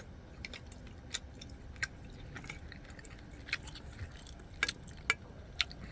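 A person eating hot pot: quiet chewing with scattered small sharp clicks, about one or two a second.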